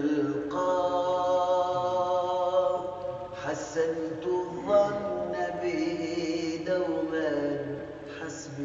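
A cappella devotional chanting of an Arabic qasida: a voice holding long, wavering notes without words and gliding from one pitch to the next.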